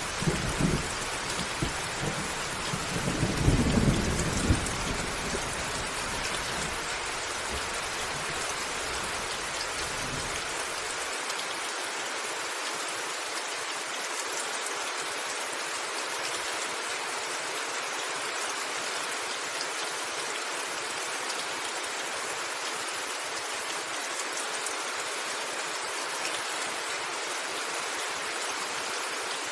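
Steady rain with thunder rumbling under it, loudest about four seconds in. The rumble stops suddenly about eleven seconds in, leaving only the rain.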